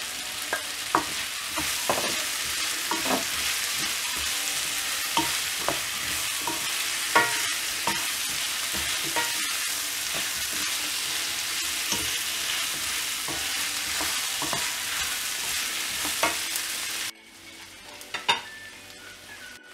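Chopped vegetables sizzling as they fry in oil in a wok, with a spatula scraping and knocking against the pan as they are stirred. The sizzle drops off abruptly near the end.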